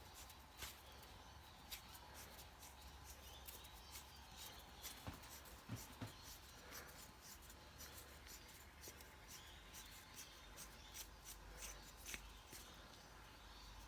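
Near silence: a low steady hum with faint scattered clicks and light rubbing, a few slightly louder ticks about five to six seconds in.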